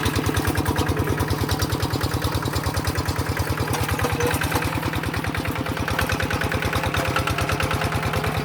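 Tractor engine running steadily at idle, with an even, rapid beat that holds constant.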